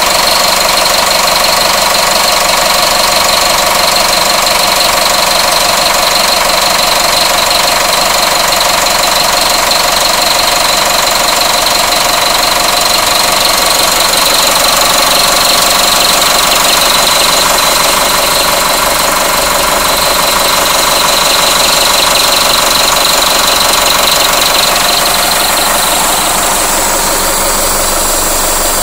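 1996 Oshkosh refuse truck's diesel engine idling steadily, with a knocking clatter and a steady high-pitched whine that fades near the end.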